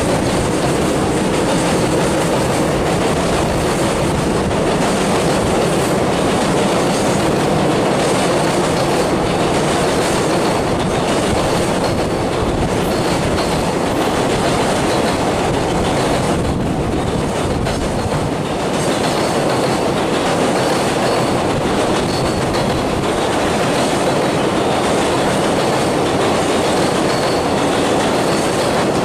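A long freight train running past on the rails, its wheels clattering steadily over the rail joints the whole time.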